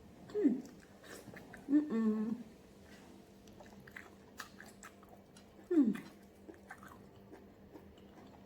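Close-up chewing and mouth clicks of a person eating pounded yam with ogbono soup and bushmeat, with three short falling-pitch "mm" sounds: about half a second in, around two seconds in and near six seconds in.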